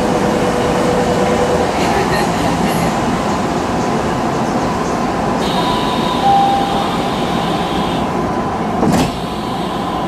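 Steady hum and hiss inside the cab of a Tokyu Toyoko Line commuter train standing still, with faint steady tones running through it. A single sharp click about nine seconds in.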